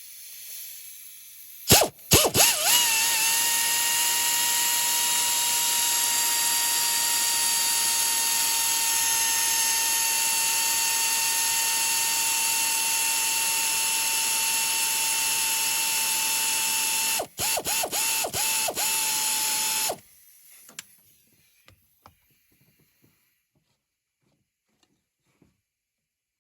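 Cordless power tool tightening the hose clamps on a diesel's charge air pipe. A couple of quick trigger blips, then the motor whines steadily for about fifteen seconds, its pitch sagging slightly. A few short bursts follow before it stops about twenty seconds in.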